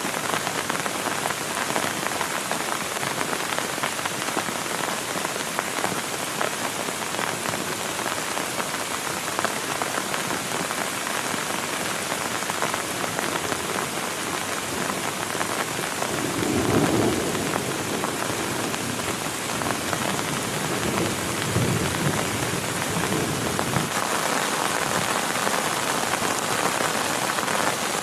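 Heavy rain falling steadily, with a deep rumble of thunder rolling for several seconds a little past the middle.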